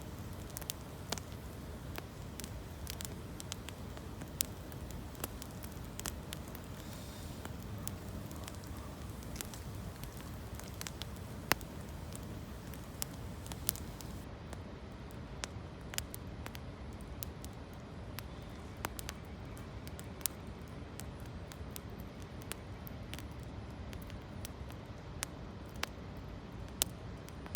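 Wood campfire crackling, with irregular sharp pops and snaps over a steady low rushing background.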